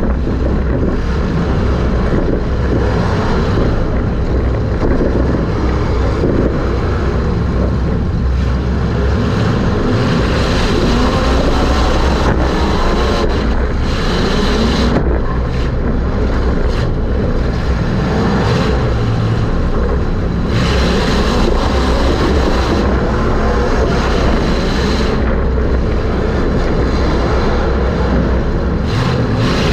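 Super Stock race car's engine running at racing speed, heard from inside the car, its pitch rising and falling with the throttle, with wind noise on the microphone.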